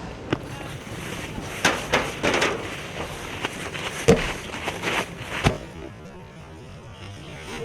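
Scattered sharp knocks and thuds, about seven in all, the loudest about four seconds in, over a steady outdoor background noise.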